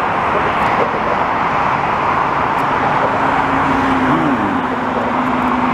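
Steady highway traffic noise, a dense hiss of passing vehicles and tyres, with a low steady hum joining about halfway through.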